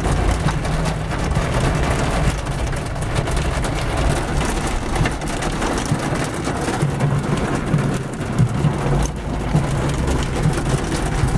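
Heavy rain falling on a car's roof and windshield, heard from inside the cabin as a dense steady patter of drops, with the car's low rumble underneath.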